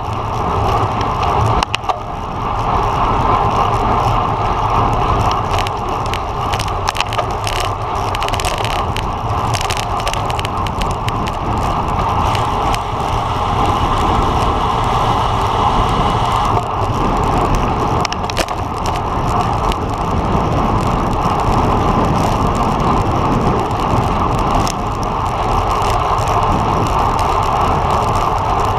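Road bike ridden at speed: steady rush of wind and tyre noise with a low rumble, broken by scattered short clicks and knocks.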